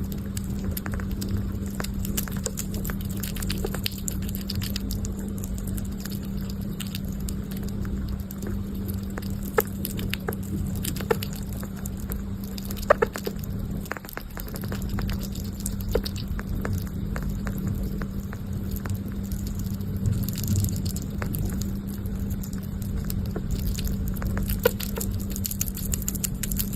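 A sugar glider nibbling and chewing a snack: scattered small clicks and crackles, a few sharper ones near the middle, over a steady low hum.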